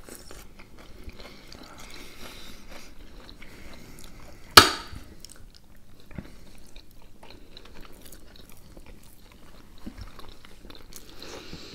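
Close-miked eating: soft chewing and mouth sounds of beshbarmak (boiled beef, potato and dough sheets), with forks scraping a glass plate. About halfway through, one sharp, loud clink of a fork striking the plate rings briefly.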